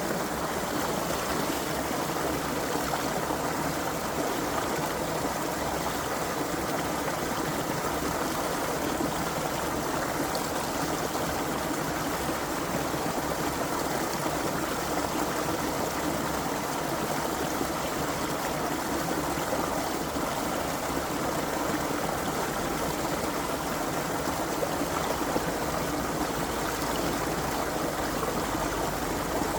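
Creek water running steadily over stones, an even rushing and trickling with no breaks.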